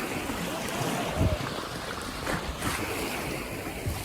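Sea surf washing in steadily, with wind gusting on the microphone.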